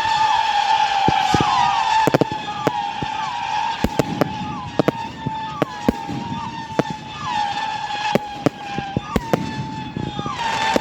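Whistling fireworks going off in quick succession, making an almost unbroken shrill whistle. Each new one starts with a short downward slide in pitch. Sharp cracks and bangs keep going off throughout.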